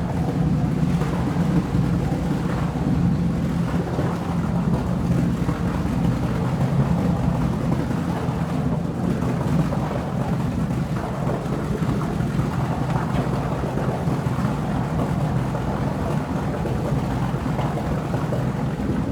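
Steady, dense low rumble with a continuous hum underneath, unchanging throughout.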